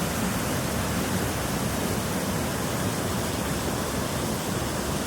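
Fast river water rushing steadily, an even unbroken noise.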